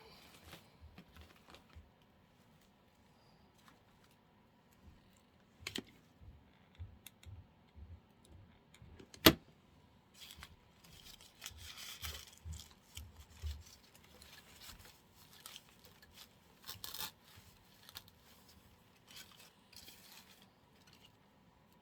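Scattered light rustling and small clicks from artificial flower stems and plastic greenery being handled and pushed into a floral arrangement, with one sharp click about nine seconds in.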